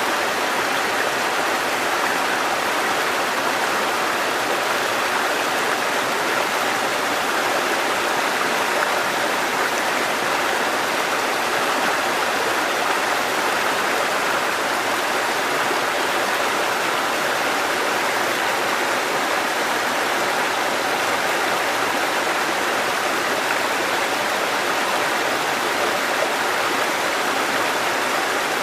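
Mountain stream water cascading over rocks: a steady, even rush of water that does not change.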